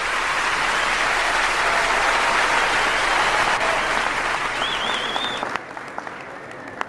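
Audience applauding, dying down about five and a half seconds in to a few scattered claps. A short warbling whistle rises over the clapping shortly before it fades.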